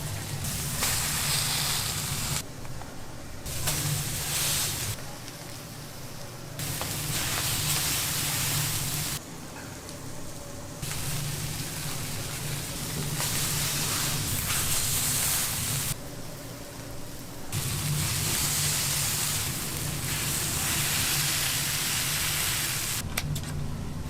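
Food sizzling on hot cooking surfaces. It comes in a run of short stretches that change level abruptly every second or few, with a low hum under some of them.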